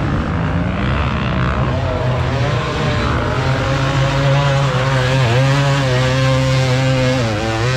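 Motocross dirt bike engine revving under throttle, its pitch wavering up and down and dropping briefly about five seconds in and again near the end.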